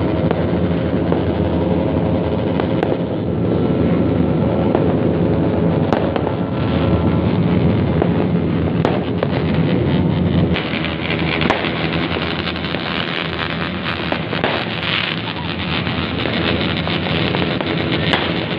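Dozens of motorcycles with open, straight-through 'brong' exhausts running together in a loud, ceaseless din, with sharp cracks scattered through it.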